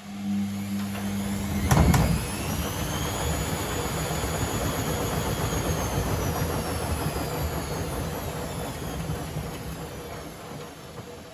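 Privileg Sensation 952 S top-loading washing machine's drum motor starting up with a hum and a knock about two seconds in, then rising quickly to a steady whine and slowly winding down. The whine and wind-down are typical of a short spin.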